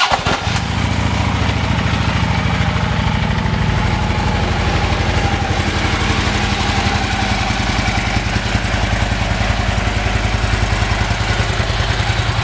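Harley-Davidson Electra Glide Ultra Classic V-twin idling steadily through an aftermarket Vance & Hines exhaust, with an even pulsing beat.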